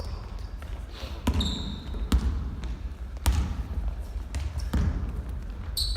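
Basketball game in a gym: a ball bouncing on the court at irregular intervals, with a few short high squeaks of sneakers on the floor, over a steady low rumble of the hall.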